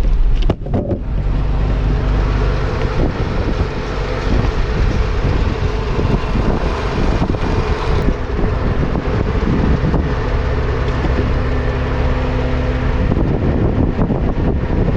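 4x4 vehicle driving on a dirt track: the engine running steadily under tyre and road noise, with its note shifting about thirteen seconds in.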